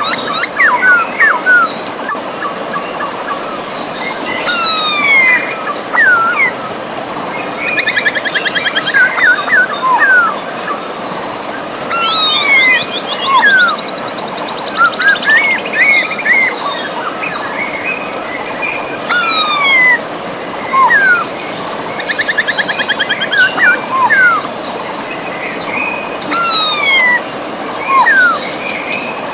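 Birds singing and calling over the steady rush of river water: many short, sharp down-slurred whistles, with a few fast trills about a third of the way in, near the middle, and again about three quarters of the way through.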